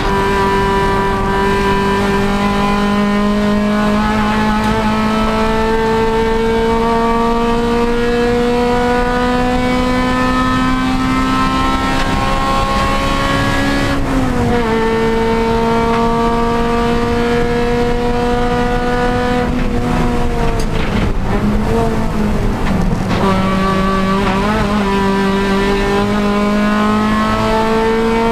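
Honda Civic Si race car's four-cylinder engine at full throttle: a long steady climb in revs, a sharp drop for an upshift about halfway, another climb, then revs falling with a few quick blips for braking and downshifts about two-thirds through, and pulling hard again near the end.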